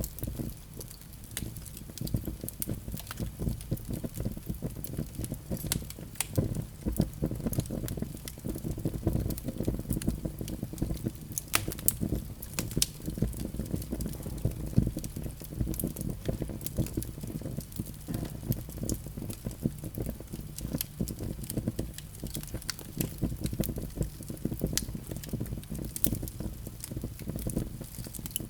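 Wood fire burning in a fireplace: a steady low flutter of flames with frequent sharp, irregular crackles and pops.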